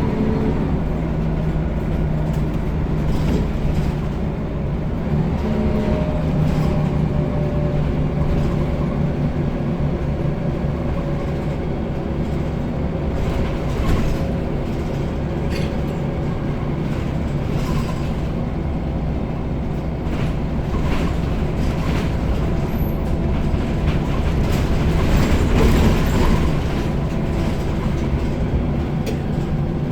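Scania L94UB single-deck bus with a Wright Solar body on the move: the diesel engine drones, its pitch shifting a few seconds in as it changes gear, with scattered rattles and knocks from the body. It grows louder about 25 seconds in.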